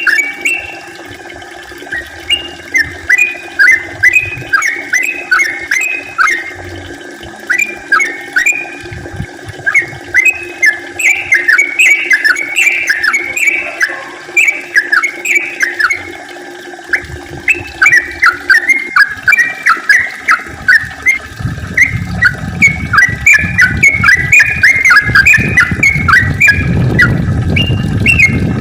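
Yellow-vented bulbul (trucukan) singing long runs of quick chirpy notes, phrase after phrase with short breaks. From about two-thirds of the way through, a low rushing noise builds up under the song.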